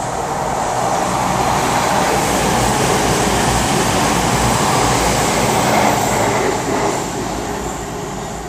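CrossCountry Class 220 Voyager diesel multiple unit passing through the station at speed without stopping. Its engine and wheel noise builds as it approaches, is loudest as it goes by mid-way, then fades as it runs off.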